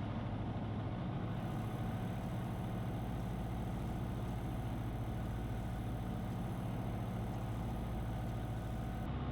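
Single-engine Cessna's piston engine and propeller droning steadily, heard from inside the cabin in flight.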